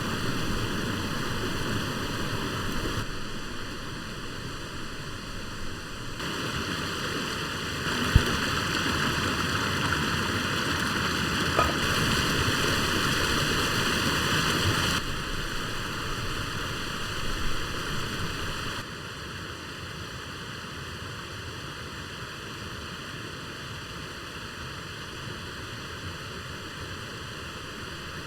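A stream flowing past, a steady rush of running water whose loudness steps up and down a few times. One sharp knock about eight seconds in.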